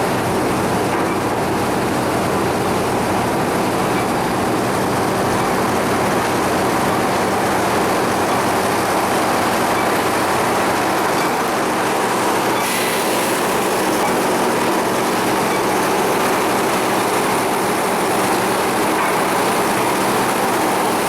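Sawmill machinery running steadily under load, a dense mechanical din with a steady low hum. A brighter hiss comes in about thirteen seconds in.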